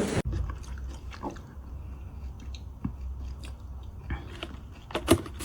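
Close-up chewing and biting, with scattered small clicks and a sharper click near the end.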